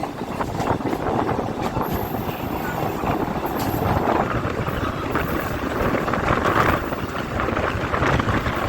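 Kolkata suburban electric local train (EMU) running along the track: a steady rumbling noise with scattered clicks and rattles from the wheels and carriages.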